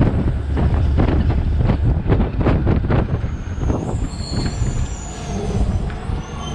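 Garbage tumbling into the hopper of a DaDee Scorpion side-loader garbage truck, a quick run of knocks and clatter over the truck's low running rumble. The clatter thins out about halfway through, and a thin high squeal follows.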